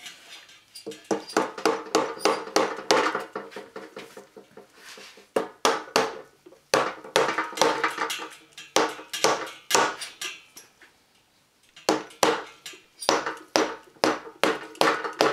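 Hammer blows on the metal of a Yamaha XT550 engine, about three or four sharp ringing strikes a second in three runs with short pauses, to break the engine's mated parts apart during disassembly.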